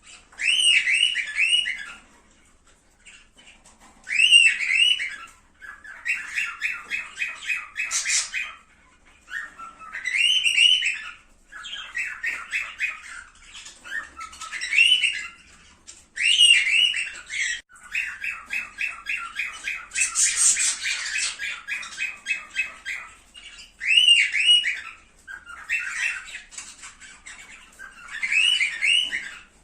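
Cockatiels calling: repeated warbling whistle-squawks about a second long, alternating with runs of rapid chattering notes.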